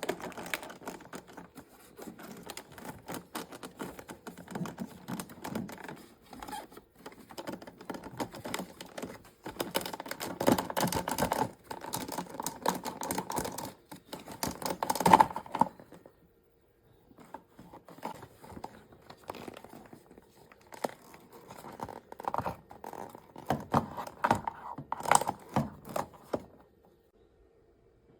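Hands handling objects on a work surface: irregular clicking, rattling and rustling that comes in two busy stretches with a short pause between them.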